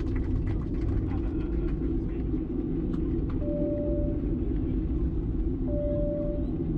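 Steady low rumble inside the cabin of a Boeing 737-700 on the ground after landing. Two short steady tones sound partway through.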